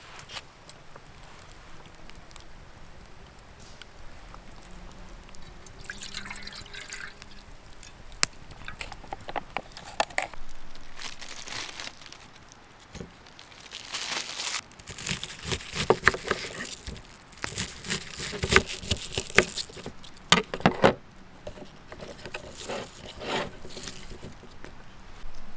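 Liquid being poured and splashing, with scattered clicks and knocks of cookware being handled, busiest in the middle stretch.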